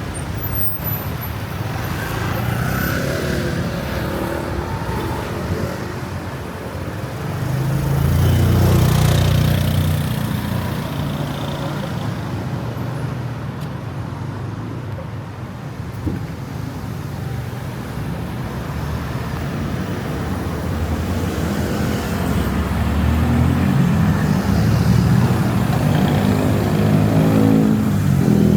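Street traffic: vehicles running past on a city road, with one passing loudly about eight seconds in and engine noise building again near the end.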